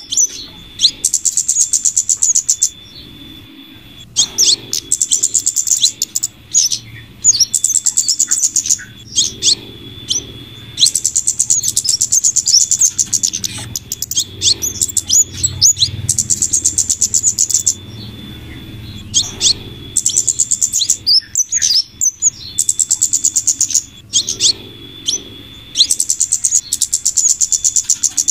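Looped bird-lure recording of flowerpecker calls combined with female scarlet minivet calls: rapid high-pitched chirping in bursts of one to two seconds, repeating again and again with short gaps, over a steady thin high tone.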